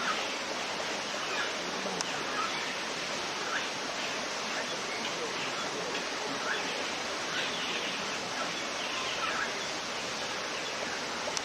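A steady rushing hiss, with faint short bird chirps scattered through it.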